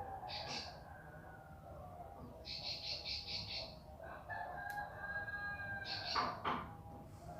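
Ciblek pari (a prinia) singing in short bursts of fast, high, trilled notes, three times, over a rooster crowing in the background.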